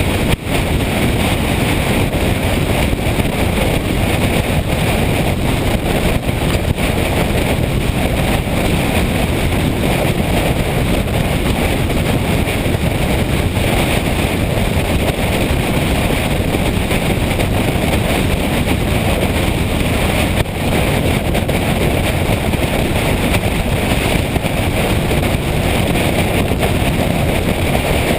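Steady rush of wind over the microphone of a moving motorcycle, with engine and road noise beneath it.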